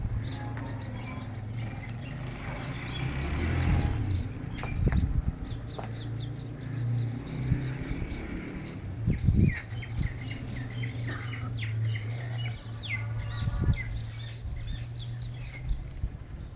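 Birds chirping, many short high calls scattered throughout, over a steady low hum.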